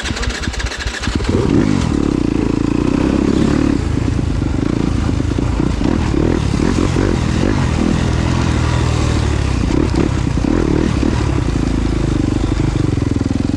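Yamaha YZ250FX 250cc four-stroke single-cylinder off-road motorcycle engine running under a rider's throttle, the note rising and falling as it is opened and closed, choppier through the middle.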